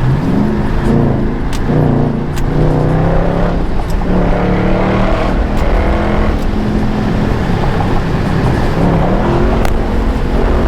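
Dodge Charger Scat Pack's 392 HEMI V8, with a mid-muffler delete, revving up several times in succession. Its pitch climbs with each pull and drops back between them.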